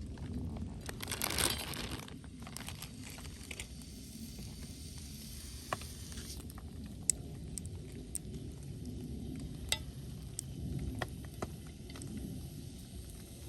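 Pork and kimchi sizzling in a pan over a wood campfire, the sizzle loudest about a second in and thinning out after that, with a low rumble underneath and a few sharp clicks now and then.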